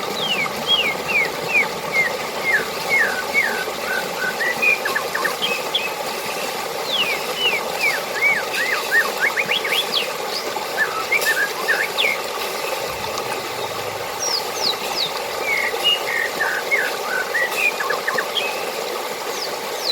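Steady rushing water with birds chirping over it: many short, quick, falling chirps that come in clusters, thinning out for a few seconds near the middle.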